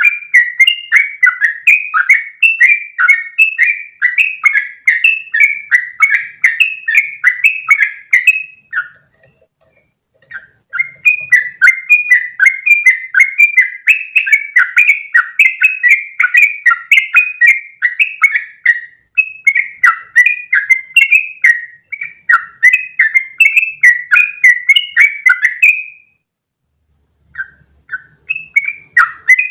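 Trucukan (yellow-vented bulbul) singing a long, fast run of rising and falling notes, about three a second. It breaks off twice, briefly about nine seconds in and again near the end, then starts up again.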